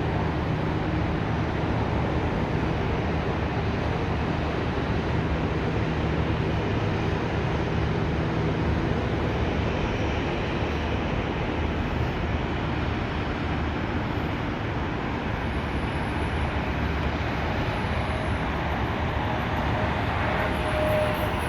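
Twin Williams FJ44 turbofan engines of a Beechcraft Premier I business jet heard at a distance during takeoff: a steady rushing roar with a low hum, a higher whine coming in near the end.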